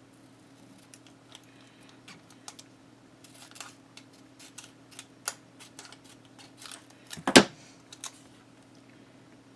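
Paper and tape being handled by hand: scattered small clicks and rustles, with one louder knock about seven seconds in.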